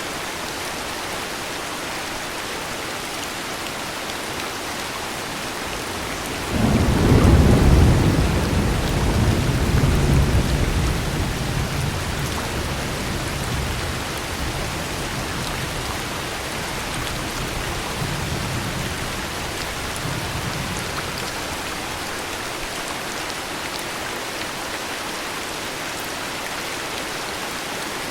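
Steady heavy rain with a thunderclap about six seconds in. The thunder is at its loudest at first, swells again a few seconds later, then rolls on and dies away over about fifteen seconds.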